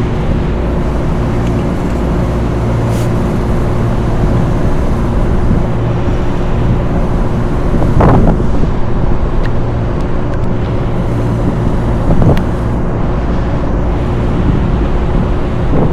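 Steady mechanical drone of running rooftop HVAC equipment, a low hum with a constant tone on top, with two brief louder swells about 8 and 12 seconds in.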